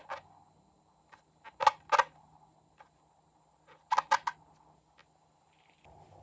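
Short sharp clicks and pops from slime being worked by hand: a pair about a second and a half in, then a quick run of three about four seconds in.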